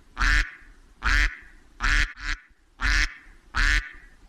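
Duck quacking repeatedly: about six short, raspy quacks at an even pace of roughly one every 0.8 seconds, with a quick double quack near the middle.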